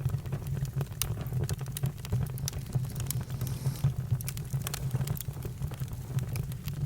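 Campfire crackling: irregular sharp pops and snaps over a steady low rumble of the flames, with a brief hiss about three and a half seconds in.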